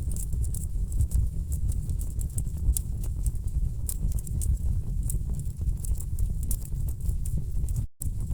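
Wood fire burning in a fireplace: a steady low rumble of flames with frequent sharp crackles and pops from the burning logs. The sound cuts out for a split second near the end.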